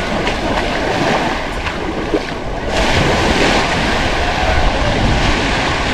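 Surf breaking and washing up the beach, a louder surge of waves coming in about three seconds in, with wind buffeting the microphone.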